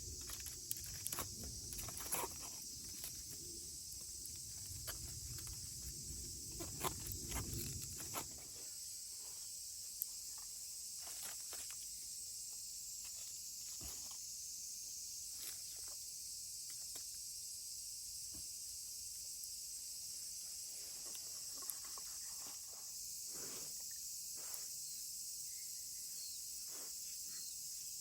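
Insects chirring steadily in a high, even drone, with scattered small clicks and crackles. A low rumble sounds for the first eight seconds, then stops.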